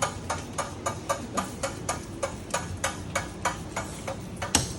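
Steady, evenly spaced clicking, about four clicks a second, with one louder click near the end.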